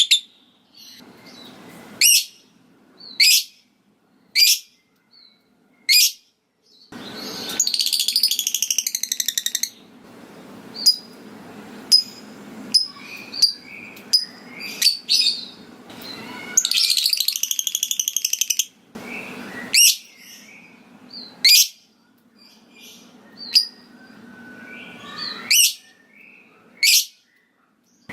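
Lovebird calling: sharp, single high chirps every second or two, broken by two bursts of rapid, harsh chattering of two to three seconds each, one about seven seconds in and one about sixteen seconds in. These are the lovebird's ticking 'ngetik' calls and its trilling 'ngekek' chatter.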